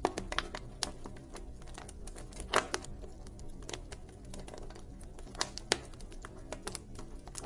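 Wood fire crackling: irregular sharp pops and snaps over a low steady rumble, with two louder pops about two and a half and five and a half seconds in.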